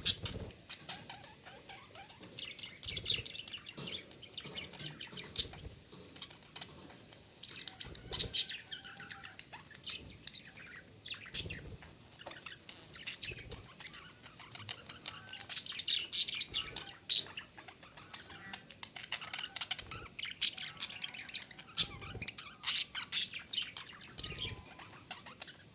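Female budgerigar chattering: an unbroken run of short chirps and squawks, with sharp clicks here and there.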